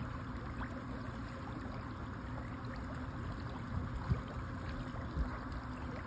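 Car driving through floodwater on a road: a steady rush of water under and around the car over a low rumble, with a few small splashes.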